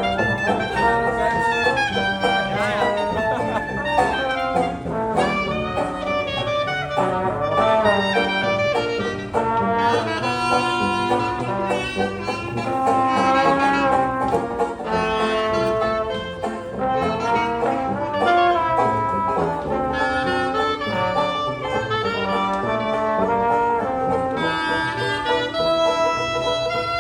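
A live band playing lively jazz-style music with prominent brass horns.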